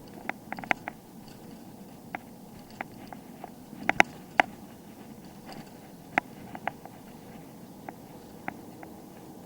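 A bicycle in motion: irregular sharp clicks and knocks, a cluster of louder ones about four seconds in, over a low steady rumble, like the bike and its parts rattling over an uneven surface.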